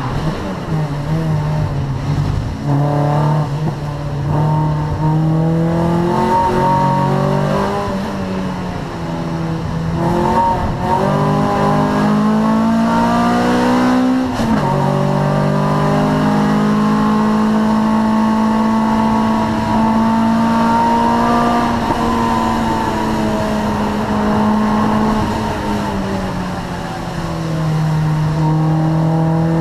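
Honda Prelude 2.2 VTEC four-cylinder race engine at racing revs, climbing steadily and then dropping sharply at gear changes and lifts, with one clear drop about halfway through.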